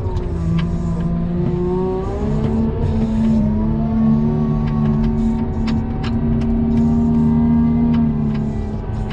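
Engine of a snow-plowing machine running under load, its pitch rising about two seconds in and then holding steady, with scattered short clicks and knocks.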